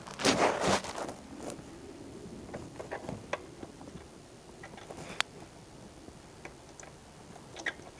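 Rustling and scraping for about the first second, then scattered light clicks and taps, as things are handled by hand.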